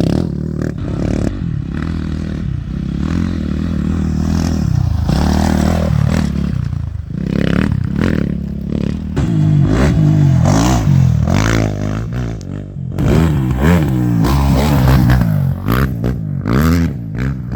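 Engines of off-road race motorcycles or quads passing at speed, revving up and down with pitch rising and falling as they go by, several in turn and strongest in the second half.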